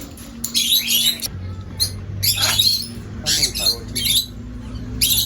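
Parrots squawking, about six short harsh calls in a few seconds, over a steady low hum.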